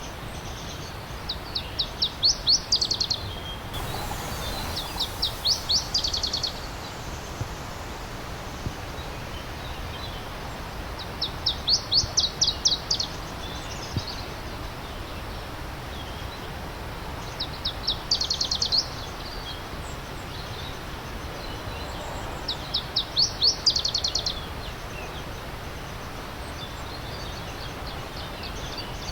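A songbird singing a short, fast, high trill five times, each a rapid string of notes lasting a second or two, over the steady rush of a stream.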